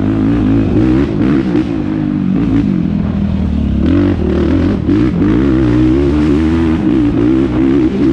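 Yamaha YFZ450R quad's single-cylinder four-stroke engine at race pace, revs rising and falling constantly with throttle and gear changes. A few knocks come through around four to five seconds in.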